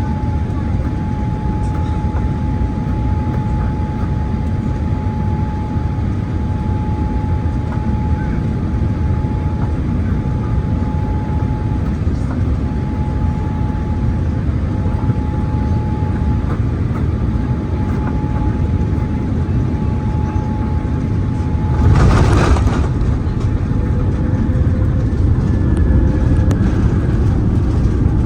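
Cabin noise inside a Boeing 787-8 airliner on landing: a steady rush of air and engine noise with a steady high tone. About 22 seconds in comes a short, loud rumble as the wheels touch down. After it the engine noise is louder, with gliding tones.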